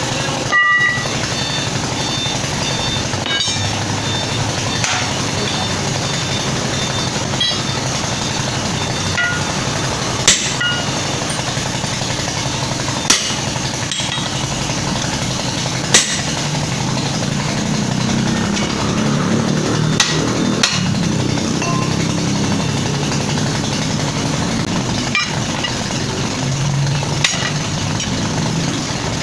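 Sharp single hammer blows every few seconds, about half a dozen in all, over an engine running steadily, during work on a dump truck tyre.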